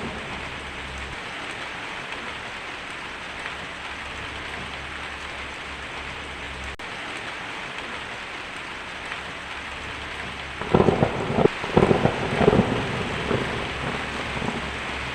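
Heavy rain pattering steadily on a tin roof, with a loud burst of thunder rumbling and crackling in several surges from about two-thirds of the way in.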